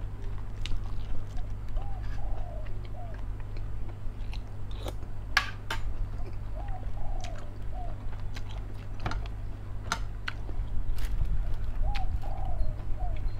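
A person chewing food with a few sharp clicks, over a steady low hum. A dove coos in the background, a three-note phrase heard three times about five seconds apart.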